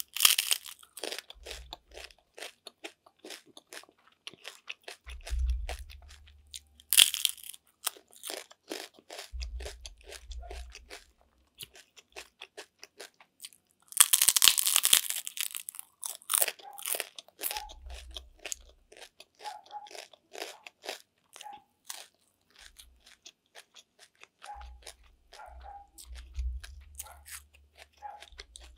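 Crisp fried chicharon (pork cracklings) being bitten and chewed close to the microphone: dense crackling crunches throughout. There are loud bites at the start and about seven seconds in, and the loudest and longest crunch comes around fourteen to fifteen seconds in.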